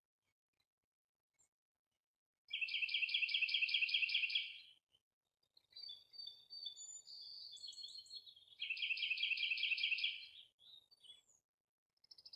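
A songbird singing two loud, rapid trills of about two seconds each, the first a couple of seconds in and the second near the end, with softer, varied twittering and whistles between them.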